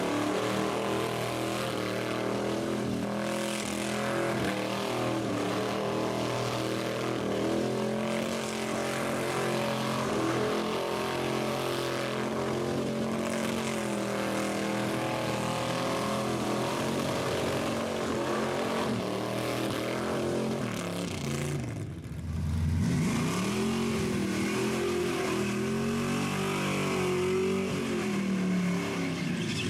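A rat rod's engine held at high revs for a long stretch, as in a burnout. Around two-thirds of the way through the revs drop briefly, then the engine is revved up and down again.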